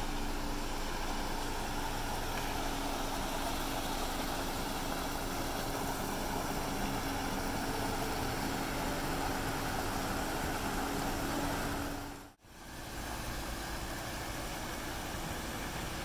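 Water falling from an old pickup truck's bed onto rocks and into a pond: a steady splashing rush with a steady low hum beneath it. About twelve seconds in the sound breaks off for an instant, then water spilling over stone ledges carries on without the hum.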